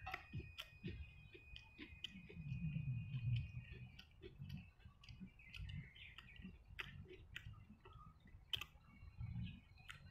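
A person chewing a mouthful of fried onion, egg and steamed bun close to the microphone: a string of small wet mouth clicks and smacks, with a muffled low chewing rumble about two seconds in.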